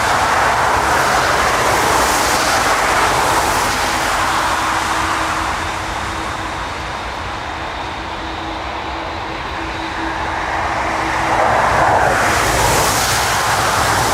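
Airbus A380 during landing: a steady rush of jet engine and air noise that eases off in the middle and swells again near the end, with a faint steady hum underneath.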